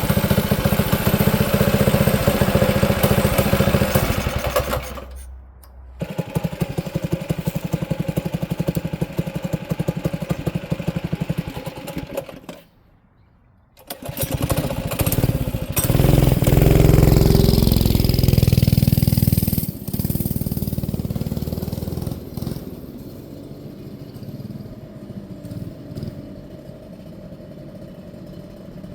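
Manco Streaker mini bike's small engine running and revving under riding, in several short stretches split by brief silent gaps. It is loudest around the middle and quieter near the end.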